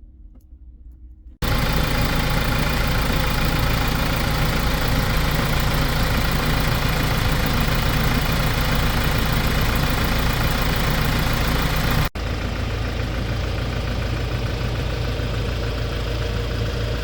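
Hyundai Porter II truck's diesel engine idling, coming in abruptly about a second and a half in. The sound breaks off for an instant near the end and goes on slightly quieter.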